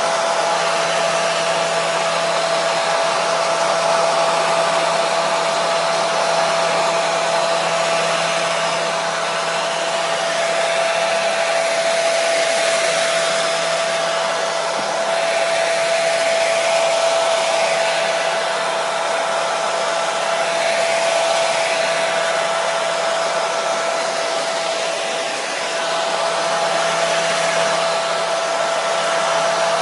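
Hair dryer running continuously, a steady blowing hiss with a constant whine.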